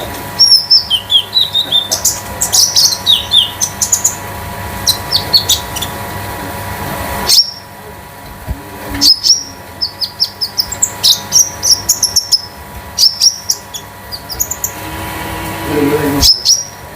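Konin songbird singing in quick bursts of sharp, high metallic chirps and sweeping notes, broken by short pauses. A steady electrical hum runs underneath.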